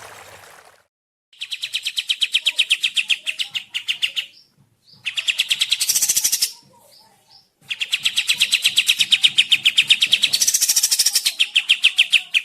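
A songbird singing a fast trill of rapidly repeated high notes, in three bursts separated by short pauses, the last and longest lasting about four and a half seconds.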